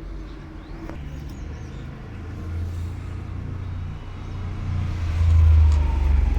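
Motor vehicle engine running nearby, a low rumble that grows louder over the last few seconds, with a faint falling whine at its loudest.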